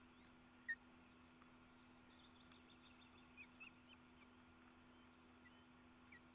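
Near silence with a steady low hum, broken by a few short, faint, high bird chirps: one clear chirp about a second in and a scatter of smaller ones in the middle.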